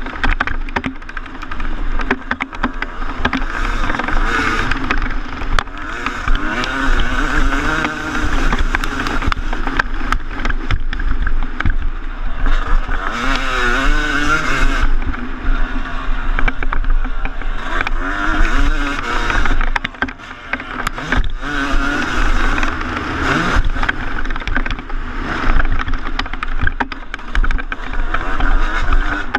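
2014 Yamaha YZ250 two-stroke motocross engine revving up and down hard as the bike is ridden round the track, heard from an on-board camera with wind noise and knocks and rattles from the chassis. The throttle shuts off briefly about two-thirds of the way through.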